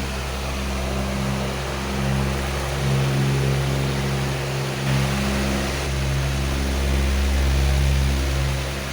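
A powerful electric fan running steadily: a low motor hum with several steady tones under a broad rush of moving air, its level swelling and easing slightly.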